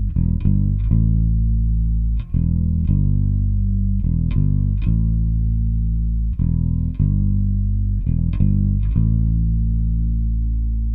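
Electric bass guitar played through a chorus pedal: a run of plucked, sustained low notes that repeats as a riff.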